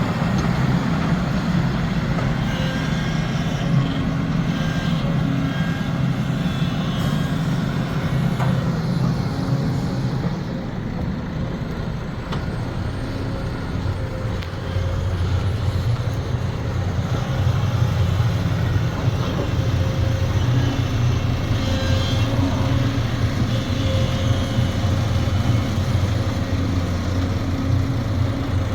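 Diesel engine of a Sumitomo SH370LHD-6 excavator running steadily under work. It eases and drops in pitch about ten seconds in, then picks back up a few seconds later.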